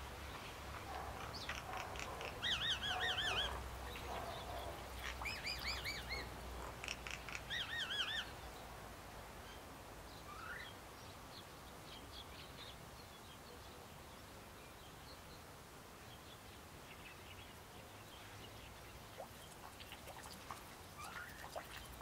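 Songbirds calling: a run of short, quavering chattering calls in the first eight seconds or so, then only faint, scattered chips.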